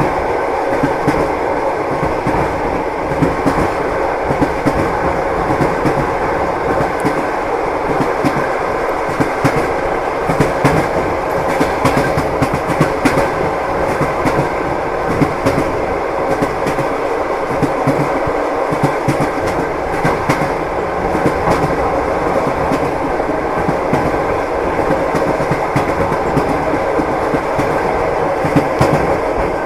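Train wheels clacking over rail joints: a steady rumble of a moving train carriage with a continual run of short knocks.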